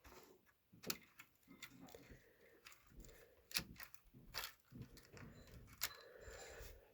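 Faint, irregular clicks and taps of small plastic HO-scale model train parts being handled, as the locomotive is hooked up to cars on the track.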